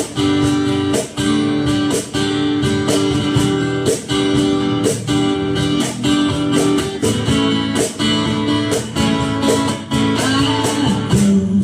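Guitar strummed in a steady rhythm with sustained chords: an instrumental passage of a song with no singing.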